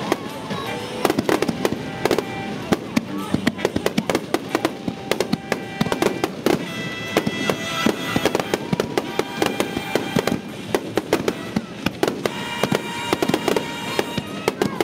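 Aerial fireworks bursting in a dense, irregular run of bangs and crackles, many shells going off in quick succession, over jazz music played for the display.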